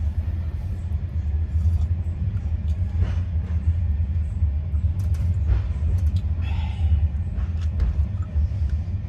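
Passenger train running, heard from inside the carriage: a steady low rumble of the wheels on the track, with a few faint clicks and knocks.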